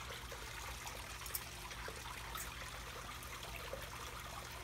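Water trickling steadily over a low hum, with a few faint clicks, the sharpest about a second in.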